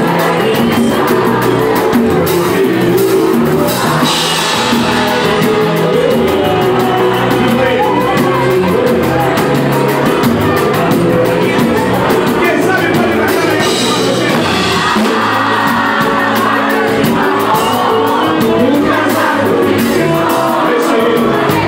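Live samba band playing with singing, its percussion keeping a steady beat, while the crowd shouts along in a large hall.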